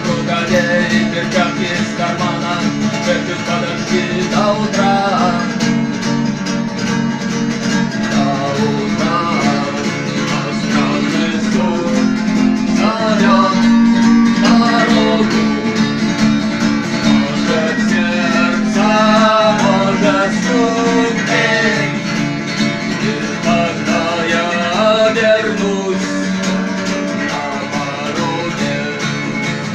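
A song sung to a strummed guitar: a voice carries the melody over steady chords.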